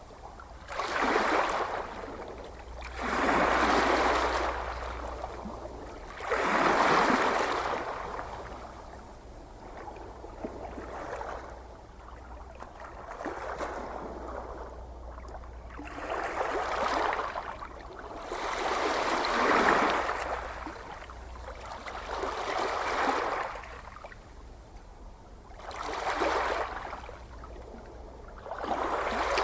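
Gentle ocean waves washing onto the shore in a slow, even rhythm, a swell of surf about every three seconds that rises and then fades back.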